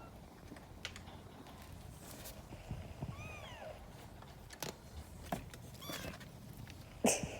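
A young kitten mewing: one high cry that rises and falls about three seconds in, with scattered light clicks and taps around it and a louder sharp sound near the end.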